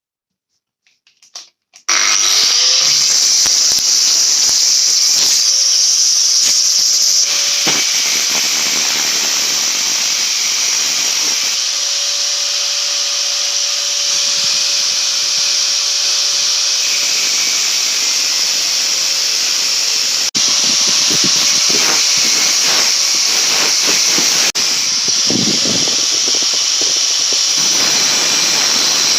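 A metalworking power tool starts about two seconds in, its motor hum rising as it spins up, then runs steadily with a loud hiss and scattered crackles, with two brief dips near the end.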